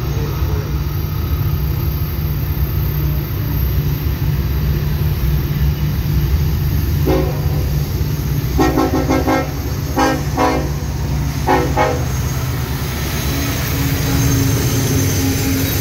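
Diesel freight locomotive approaching with a steady low engine rumble. Its multi-tone air horn sounds in several blasts between about seven and twelve seconds in. The sound swells as the locomotive passes close near the end.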